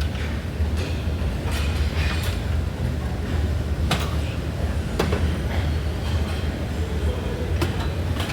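Gym noise: a steady low rumble with sharp metallic clicks and clanks every second or two, typical of a weight machine's stack and frame being worked.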